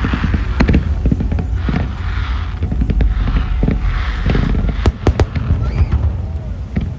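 Fireworks display: a string of sharp cracks and bangs, most densely about five seconds in, with patches of crackling over a steady low rumble.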